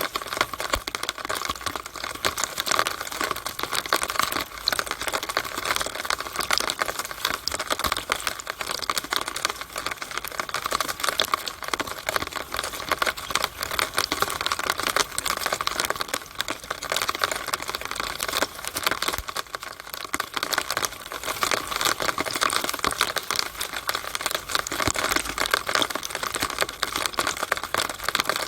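Rainwater dripping and trickling through a downspout in the rain: a dense, steady patter of rapid drops and ticks against the pipe.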